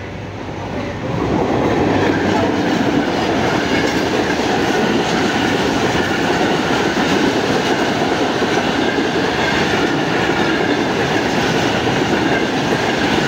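Passenger train running past close by, its carriages rolling over the rails. The sound builds over the first second or two and then holds steady.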